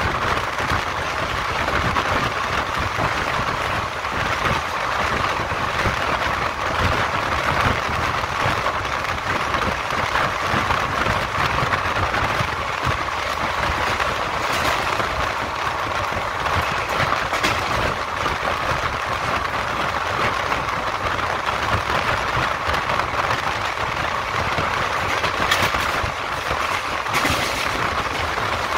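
Running noise of an Indian Railways ICF passenger coach at speed, heard from its doorway: a steady rush and rumble of wheels on rails and passing air, with a few sharp clicks about halfway through and again near the end.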